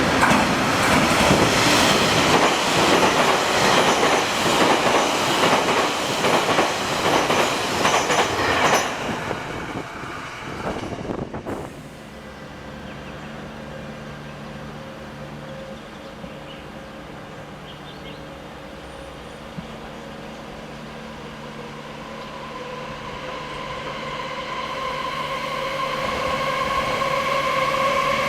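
A train passing at speed, its wheels clattering rapidly over the rails, cuts off suddenly about eleven seconds in. A quieter steady hum follows, then a whining tone grows steadily louder toward the end as another train approaches.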